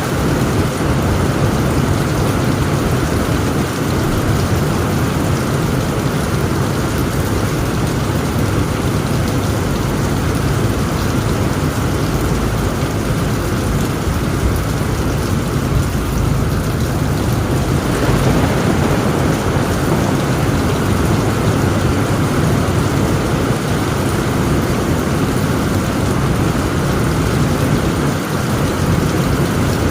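Heavy rain falling on a tent roof with a continuous low rumble of thunder underneath. The rain eases slightly in the middle and picks up again about two-thirds of the way through.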